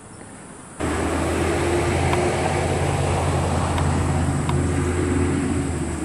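A steady motor drone with a low hum, like road traffic or a vehicle engine running, cuts in abruptly about a second in and holds level. A few faint sharp taps sound over it.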